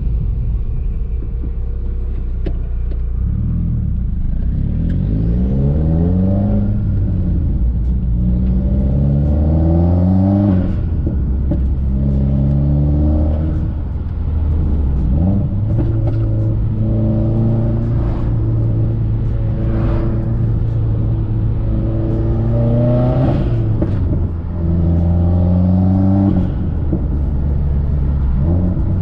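Modified turbocharged four-cylinder engine of a Subaru WRX under hard acceleration, the revs climbing and then dropping at each gearshift several times over, with a steadier stretch in the middle.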